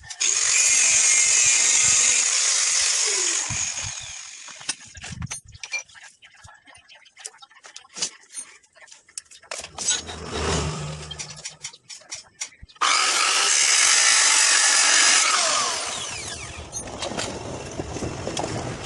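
A handheld power tool runs in two bursts of about three seconds each, the second starting abruptly about two-thirds of the way in and then winding down. Scattered knocks and clatter come between the bursts.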